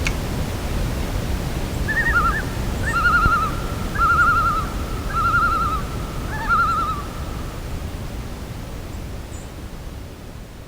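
Common loon giving its tremolo call: several quavering, rapidly wavering phrases in a row, over a steady low rumble. The rumble fades near the end.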